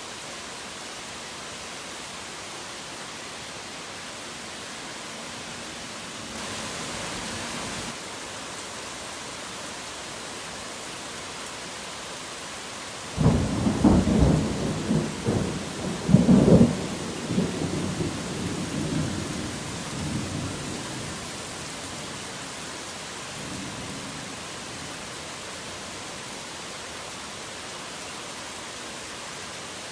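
Steady heavy rain falling, with a sudden clap of thunder a little before halfway that cracks and rumbles for several seconds before fading. A faint further rumble follows some seconds later.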